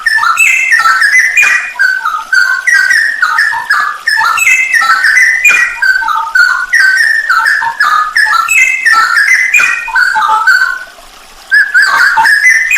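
Straw-headed bulbul (cucak rowo) singing loud, rich whistled warbling phrases, over and over, with a short pause near the end. It is a masteran song recording full of 'isian' (song fillings).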